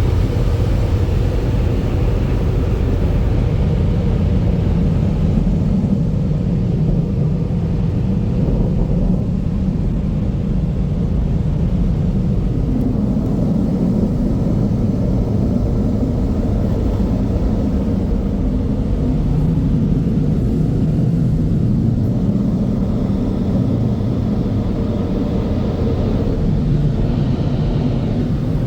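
Steady, loud rumble of car wash tunnel blower dryers (Sonny's Mammoth dryers), heard from inside the car as it passes through the drying stage.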